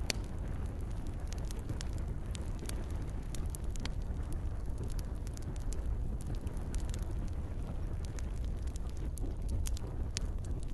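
Campfire crackling, with frequent sharp irregular pops over a steady low rumble, and gentle rain falling.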